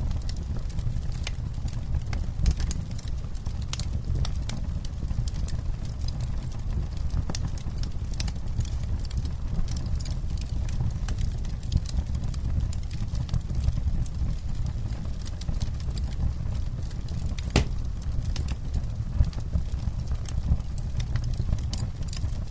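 Campfire burning, the wood crackling with irregular sharp pops and one louder snap a little after halfway, over a steady low rumble.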